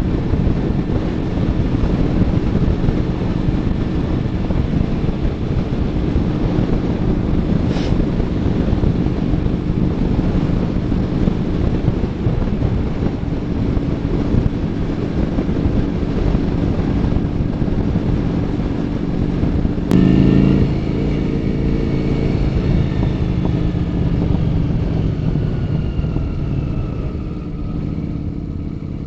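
Honda Shadow 400's V-twin engine running steadily through an aftermarket Kentec muffler, with a brief louder rise and a sharp click about two-thirds of the way through.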